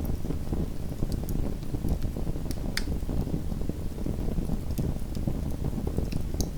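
Small wood fire burning in a fireplace: a steady low rumble of flame with scattered light crackles, and one sharper pop a little under three seconds in.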